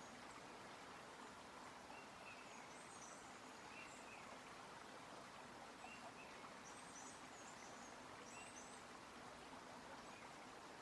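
Very faint forest ambience: a steady soft hiss with small, high bird chirps every second or two.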